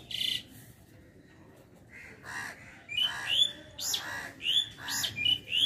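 Birds calling: one short call at the start, then from about two seconds in a quick run of about eight harsh, repeated calls, each rising in pitch at its top.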